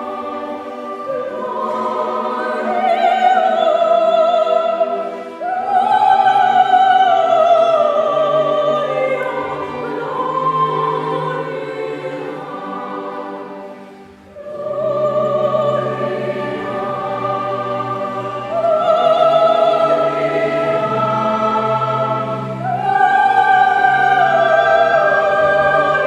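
Classical sacred music: voices singing long, wavering, sustained phrases of a mass setting over a chamber orchestra. The music thins to a brief lull about halfway through, then swells again.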